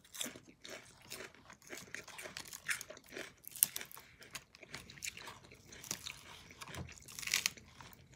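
Close-up chewing of a mouthful of crisp lettuce salad: irregular crunches and bites throughout.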